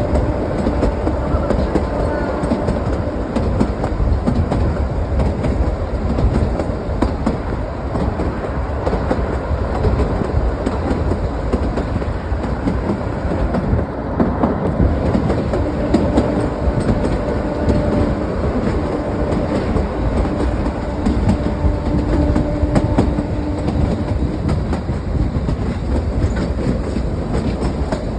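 Kalka–Shimla narrow-gauge toy train running, its wheels clattering over the rail joints in a continuous rumble and rattle. A faint steady hum comes and goes, clearest in the second half.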